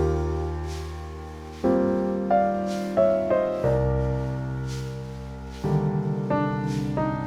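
Slow, gentle piano music: single notes and soft chords struck one after another, each ringing and fading away.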